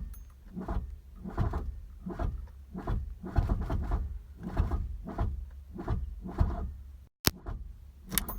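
Starter cranking the 1982 Volkswagen Rabbit's 1.6 diesel engine in a slow, rhythmic chug of about two beats a second without catching, on a jump pack that is running low; the cranking cuts off about seven seconds in, followed by a few sharp clicks.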